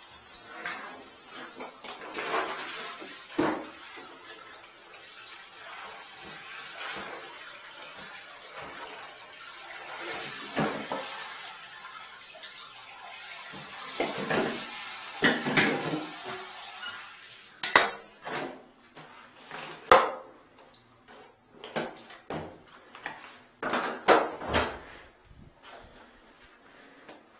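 Water running with a steady hiss, mixed with clattering and knocks of metal and hard objects; about two-thirds of the way through the water stops suddenly, leaving scattered sharp knocks and clanks.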